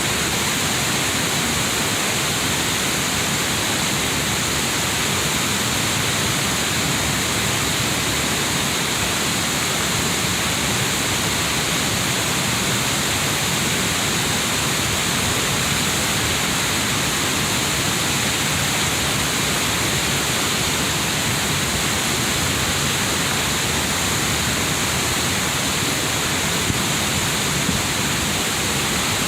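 Waterfall on a river, falling water rushing in one steady, unbroken hiss.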